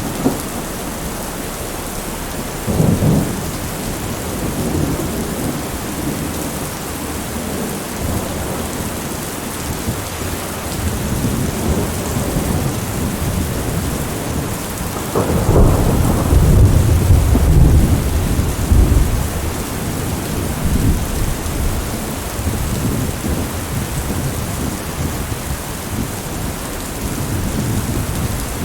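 Steady heavy rain with rolling thunder: a short rumble about three seconds in, then a sharp crack about fifteen seconds in that rolls on as a deep, louder rumble for several seconds before fading back under the rain.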